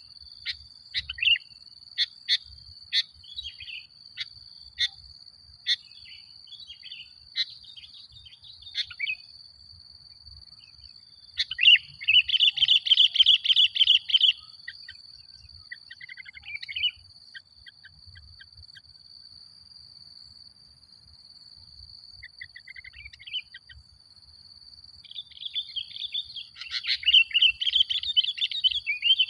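Sooty-headed bulbul (kutilang) male calling and singing. A run of sharp single chips over the first several seconds gives way to a burst of rapid chattering song about twelve seconds in, scattered phrases, and another chattering burst near the end. A steady high-pitched tone runs underneath.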